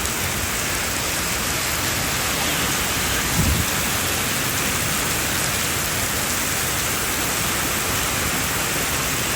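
Heavy rain falling steadily, a dense even hiss, with a brief low thump about three and a half seconds in.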